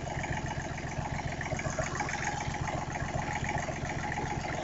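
Freshly overhauled small diesel engine running at a steady idle with an even, rapid beat.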